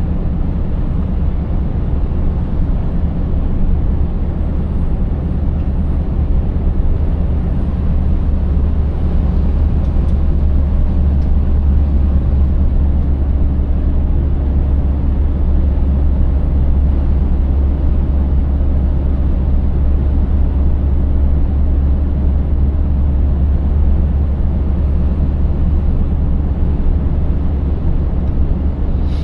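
Scania 590S V8 truck under way at a steady pace: a deep, even engine drone with road noise, unchanging throughout.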